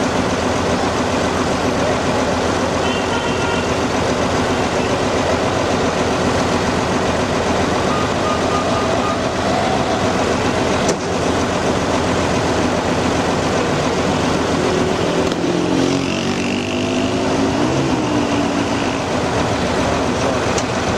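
An engine running steadily and unbroken, fairly loud.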